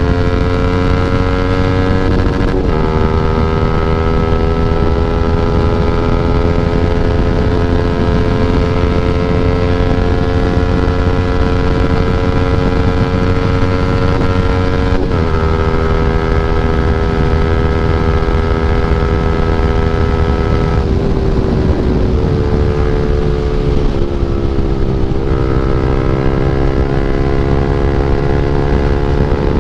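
KTM Duke 390's single-cylinder engine through an open Akrapovic exhaust with no dB killer, pulling steadily under way. The pitch climbs slowly and drops sharply with an upshift about two and a half seconds in and again about fifteen seconds in. About twenty-one seconds in the revs fall away, then rise again a few seconds later.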